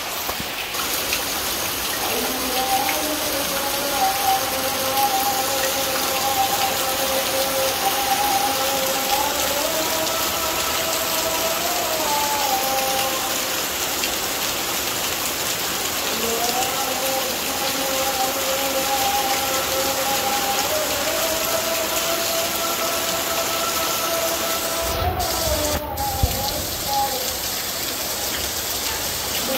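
Heavy monsoon rain pouring steadily, with a distant azan sung over a loudspeaker above it: long held notes that glide from pitch to pitch, pausing for a few seconds mid-way.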